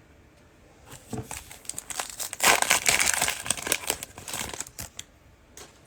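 Cellophane wrapper of a Mosaic basketball cello pack being torn open and crinkled. The crinkling starts about a second in, is loudest in the middle and stops about five seconds in.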